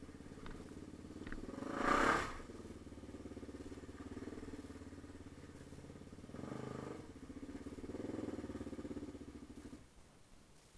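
Yamaha TT-R250 dirt bike's single-cylinder four-stroke engine running steadily, with a louder surge about two seconds in and two smaller ones later. The engine cuts off near the end.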